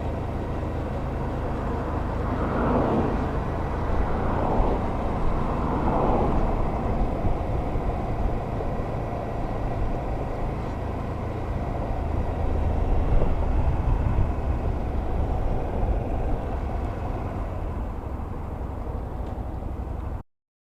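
A motor vehicle's engine running steadily with road noise, swelling up and down a few times in the first six seconds, then cut off abruptly.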